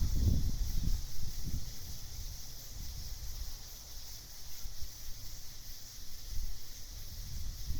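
Night chorus of insects, a steady high-pitched shrill, over low gusts of wind rumble that ease off after the first second or so and pick up again near the end.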